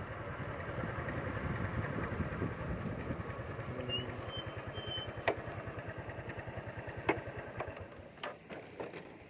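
Small engine running steadily with an even low pulse, fading away near the end, with a few sharp clicks over it.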